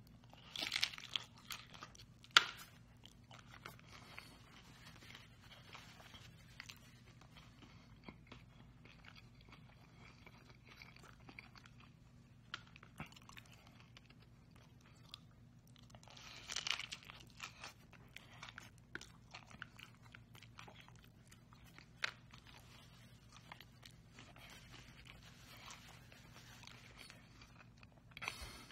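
Crunchy bite into a fried corn tostada shell, then close-up chewing of the mouthful with small crackles. A second loud burst of crunching comes a little past halfway.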